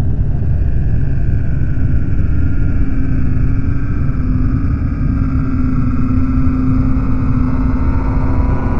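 A loud, continuous low rumble with a steady droning tone over it that rises slightly in pitch.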